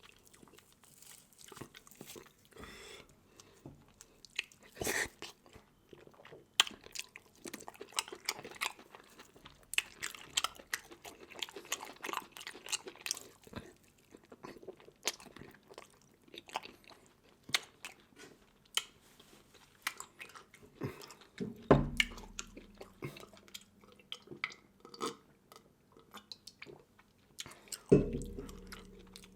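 Close-miked eating of seafood: a steady run of chewing, biting and crunching with many small sharp cracks, broken by two louder dull thumps, one about two-thirds through and one near the end.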